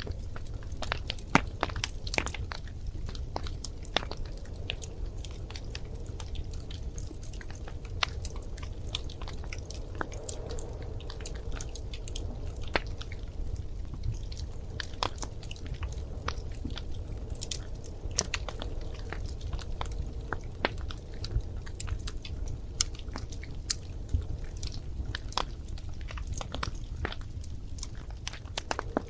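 Wood fire burning in a fireplace: a steady low rumble of flame with frequent irregular crackles and sharp pops.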